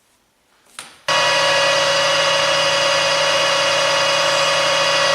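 Metal lathe running, its chuck spinning steadily with an even mechanical hum and whine. The sound starts suddenly about a second in, just after a click.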